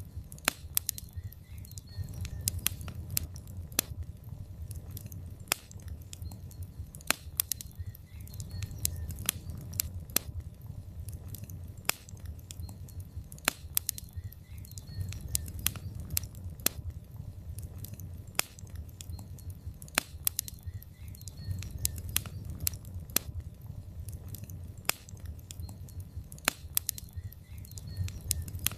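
Wood fire of burning logs in a fireplace, crackling and popping irregularly over a steady low rumble of the flames.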